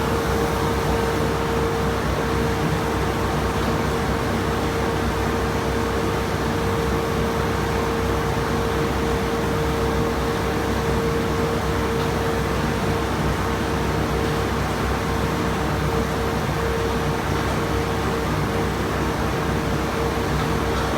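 Farm machinery running steadily, a constant whine over a low rumble and hiss.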